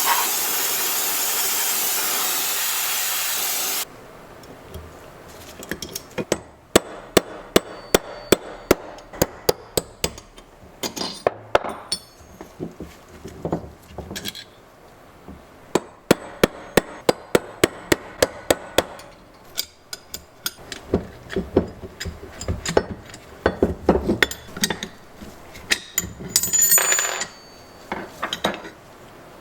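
A loud steady hiss that cuts off suddenly about four seconds in. Then a hammer tapping on metal in quick runs of sharp, ringing blows, about four a second, with short pauses between the runs.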